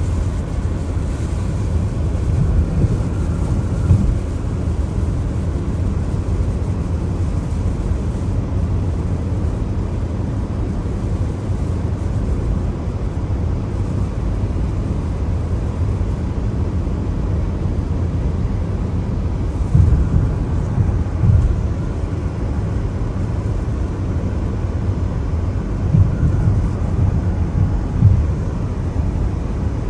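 A car driving on a wet road in the rain: a steady low rumble of tyres and road noise with a light hiss. Several brief low thumps stand out, one about four seconds in, two around two-thirds of the way through, and two near the end.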